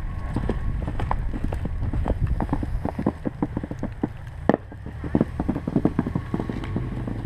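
Footsteps crunching in snow, several short crunches a second with one sharper crunch midway, over a low rumble of wind on the microphone.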